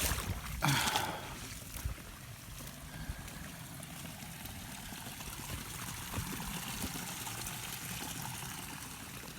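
Rubber boots splashing as someone wades through shallow rainwater in the first second, then a steady trickle of running water.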